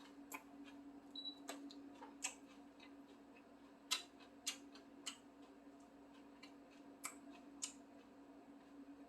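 Quiet eating sounds: scattered sharp clicks from mouth and chopsticks as roast duck wrapped in water parsley is eaten, the loudest about four seconds in. Under them runs a steady low hum from the range hood fan and the induction cooktop.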